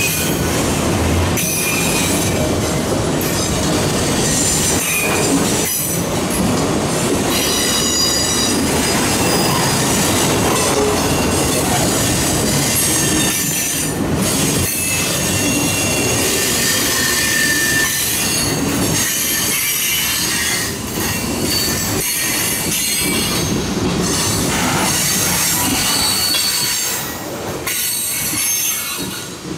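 A freight train's cars roll past close by on a curve: a steady rumble and clatter of steel wheels on rail, broken by short knocks. High-pitched wheel squeal comes and goes throughout.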